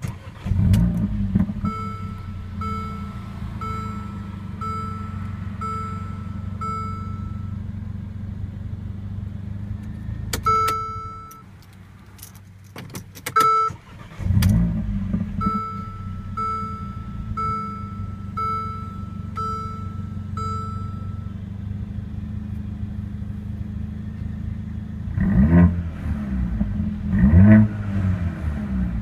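Mercedes-AMG CLA45's 2.0-litre turbocharged inline four-cylinder starts with a brief flare and settles to a steady idle while a cabin warning chime rings about once a second. Midway the engine goes quiet and is restarted with a second flare and more chiming, then it is blipped with several quick revs near the end.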